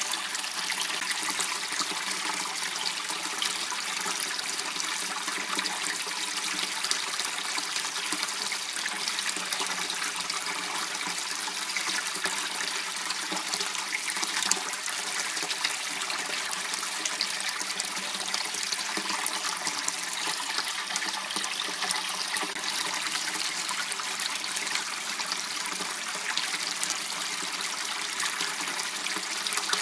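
Water running steadily in a small channel, an even, unbroken flow.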